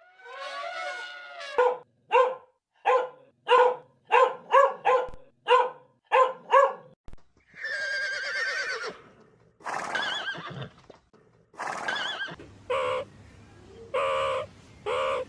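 A series of animal calls: first a run of about ten short, evenly repeated calls, then a few longer wavering calls, then more short calls near the end.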